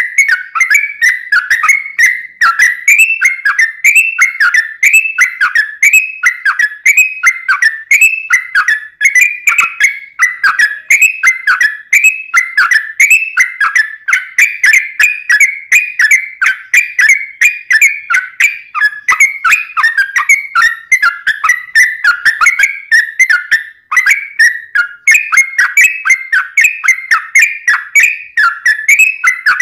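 Yellow-vented bulbul (trucukan) singing a long, unbroken stream of quick, bubbly whistled phrases, about two a second, with no pauses.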